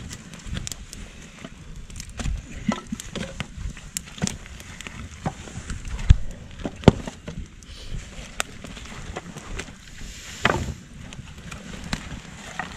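Dry twigs and firewood snapping and knocking in irregular sharp cracks, with two loud knocks about six and seven seconds in.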